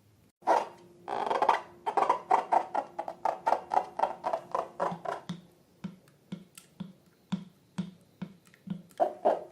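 Slime being squished and worked by hand: a run of short sticky pops and clicks, about four a second at first, then slowing to about two a second.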